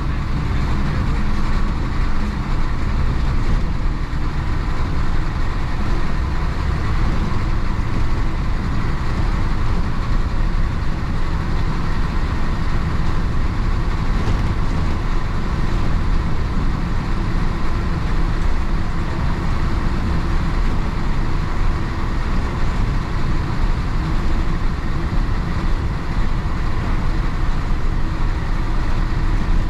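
A 1966 Isuzu BXD30 bonnet bus's DA640 diesel engine running steadily under way, with road noise, heard from inside the bus.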